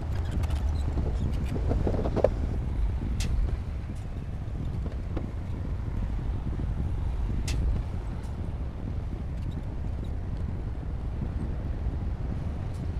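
D60P bulldozer's diesel engine running steadily with a low rumble, with a couple of sharp metallic clicks.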